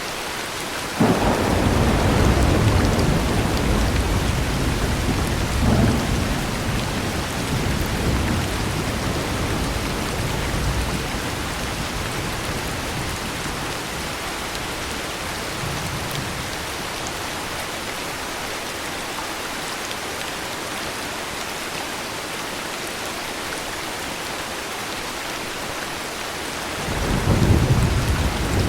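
Steady heavy rain with a sudden crack of thunder about a second in that rumbles on, swelling twice, and fades over about ten seconds; a second roll of thunder builds near the end.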